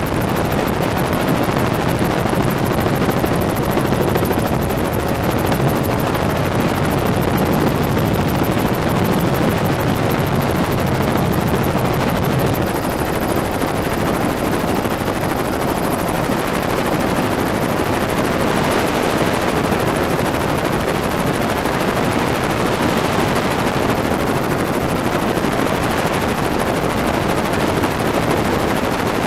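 Helicopter in flight: loud, steady rotor and engine noise with a fast, even chop of the blades.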